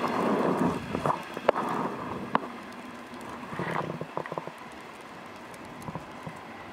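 A passing train running away, with scattered sharp clicks and knocks over a rushing noise. It fades to a quiet steady hiss after about four seconds.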